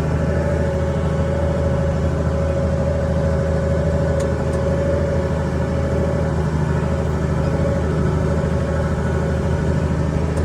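Tractor engine running at a steady speed, a constant drone with no changes in pitch.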